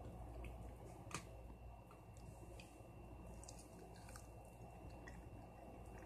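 Faint chewing and biting on a breaded bone-in chicken leg, with small scattered mouth clicks and one sharper click about a second in.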